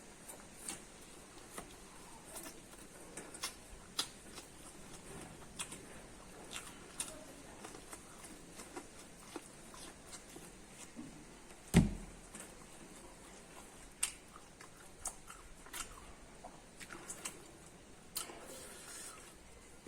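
Close-miked eating of corn: irregular crisp clicks and crunches of biting and chewing the kernels, with one louder thump about twelve seconds in.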